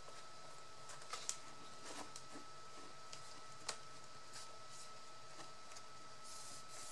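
Craft materials being handled: a few small sharp clicks and light rustling of paper or card, the loudest click a little after one second, over a faint steady high whine.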